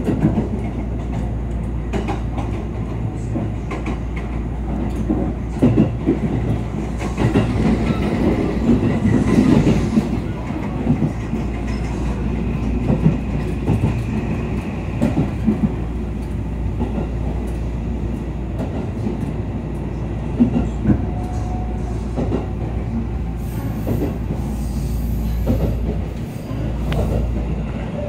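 JR West 281 series Haruka limited express running, heard from inside the carriage: a steady low rumble with the wheels clicking irregularly over rail joints.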